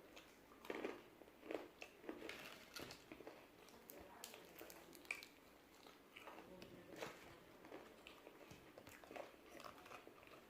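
A person biting into and chewing crispy fried chicken, with irregular crunches between softer chewing.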